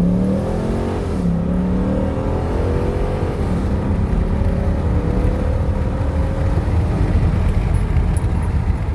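Car engine accelerating under load, its pitch climbing, dropping sharply once about a second in as at a gear change, then climbing steadily again for several seconds, over a heavy low road rumble.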